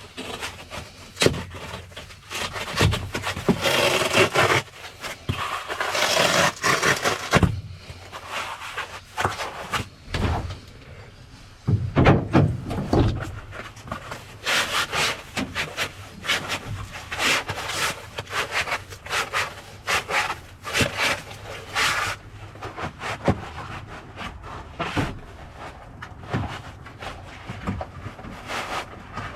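Insulation being handled and pushed into gaps around a truck bed cap: irregular rubbing, scraping and rustling, with a few sharp knocks.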